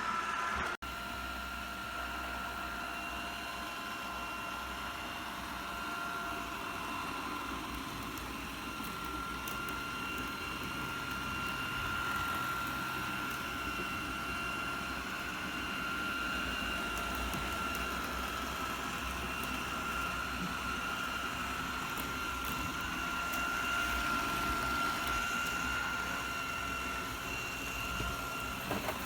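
Lubluelu L20 robot vacuum running, its suction fan giving a steady high whine over a hiss of airflow and brush noise. The sound drops out briefly about a second in.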